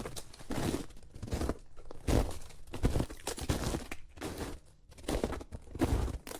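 Footsteps crunching in snow, a series of separate steps at an uneven pace.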